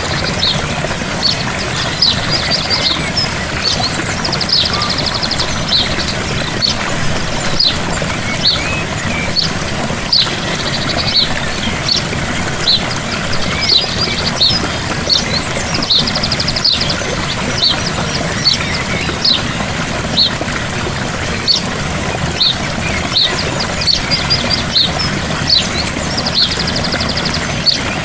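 Gentle waterfall splashing steadily, with birds chirping throughout and a rapid trill heard three times.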